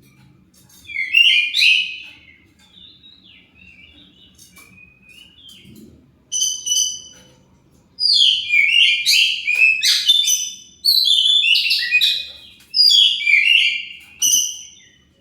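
Oriental magpie-robin (kacer) singing a loud, varied run of whistled and chattering phrases. The song is soft and broken at first and becomes nearly continuous from about halfway on. It is the combative 'fighter' song used as a lure to make another kacer answer.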